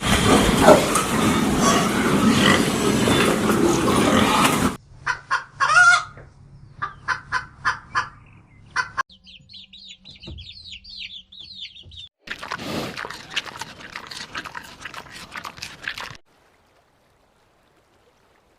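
Chickens clucking across several short cuts: a busy flock, then a run of separate short clucks, then a brief stretch of high chirping, and another busy flock.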